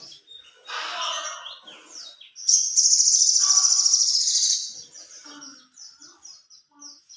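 Sogon bird song. A lower, buzzy phrase comes about a second in, then a long, rapid, high trill lasting about two seconds. A run of short high notes follows, fading toward the end.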